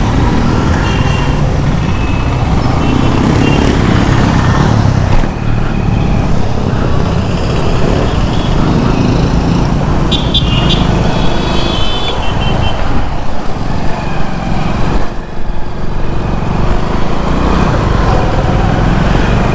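Riding noise from a moving Hero Splendor Plus 100cc motorcycle: wind rumbling on the microphone with engine and road traffic noise. Brief vehicle horn toots sound about a second in and again around ten seconds in.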